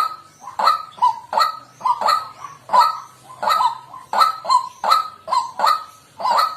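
White-breasted waterhen calling: a steady run of short, hoarse 'kwak' notes, about two a second.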